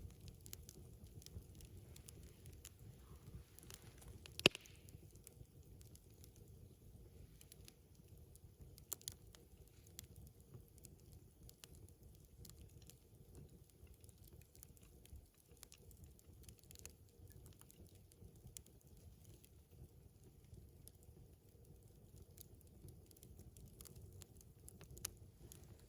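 Wood campfire crackling with scattered small pops, one sharp loud pop about four and a half seconds in and another a few seconds later.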